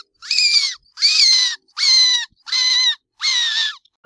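A pet rat squeaking: five high-pitched squeaks of about half a second each, evenly spaced, each dropping in pitch at its end.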